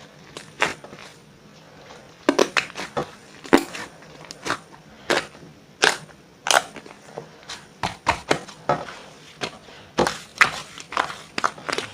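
Sticky whipped-cream slime being squeezed and worked by hand, making sharp pops and clicks at an uneven pace, about two a second.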